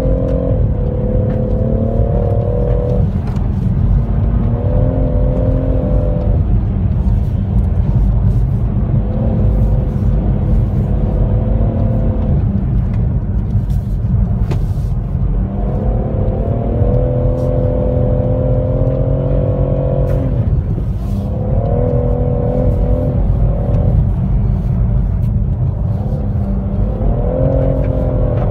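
BMW M140i xDrive's turbocharged 3.0-litre straight-six heard from inside the cabin, pulling hard and easing off again and again between about 2,800 and 5,200 rpm. Its note rises and falls over a constant low rumble.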